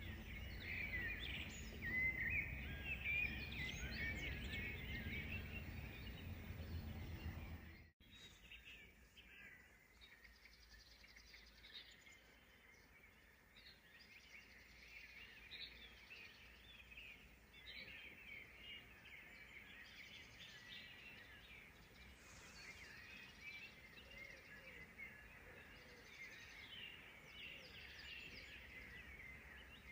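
Several songbirds singing and calling together, many short chirps and trills. A low steady rumble under them for the first quarter or so stops abruptly, leaving the birdsong over a quieter background.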